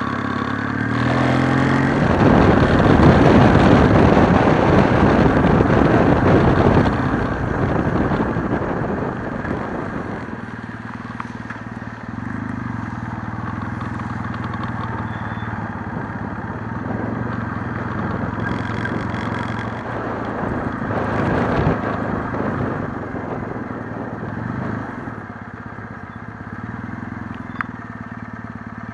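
Kawasaki W650's air-cooled parallel-twin engine under way, rising in pitch over the first couple of seconds. A loud rushing noise then covers it for a few seconds before it settles into a steady running note.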